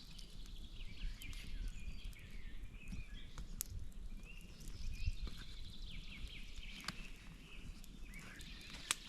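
Outdoor ambience with faint bird calls and scattered sharp clicks over a low background rumble.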